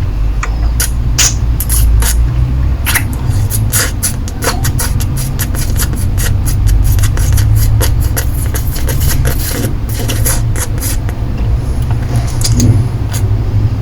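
Close-miked mouth sounds of licking and sucking a lollipop: a dense run of wet clicks and smacks, thickest through the middle, over a steady low rumble.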